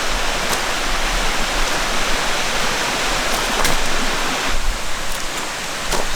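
Valley stream water running steadily, an even rushing with a few faint light clicks.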